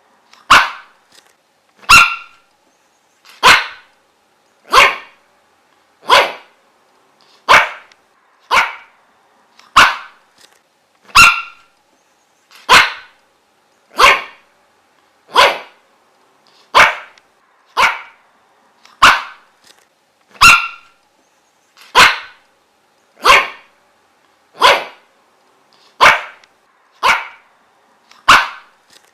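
A dog barking single sharp barks at a steady, even pace, about one every second and a half, each bark about as loud as the last.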